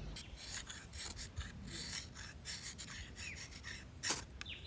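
Repeated short rasping scrapes, a dozen or more irregular strokes, with a louder stroke about four seconds in.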